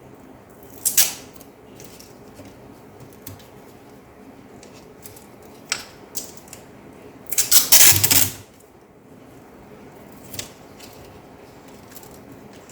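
Small hard laptop parts being handled, clicking and rattling: a sharp click about a second in, a few lighter clicks, and a longer clatter lasting about a second near the middle.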